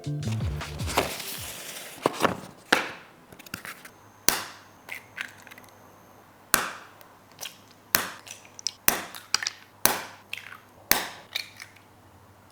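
Meal preparation: a short rustle of packaging, then a string of sharp clicks and knocks from kitchenware and food being handled, about one every half second to second.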